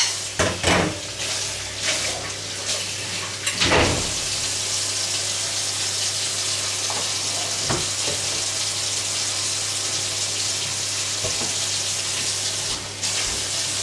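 Steady hiss over a low hum in a kitchen, with a few sharp knocks in the first four seconds.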